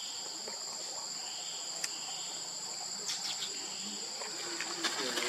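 A steady, high-pitched insect chorus, with a few short clicks or snaps about two, three and five seconds in.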